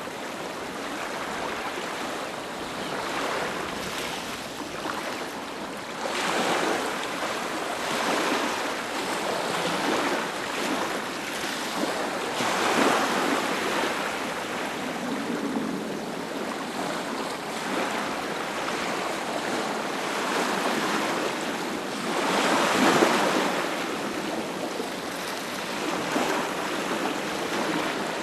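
Ocean waves breaking and washing onto a beach, a continuous rushing surf that swells and recedes every few seconds, with the biggest surges about a third of the way in and again near the end.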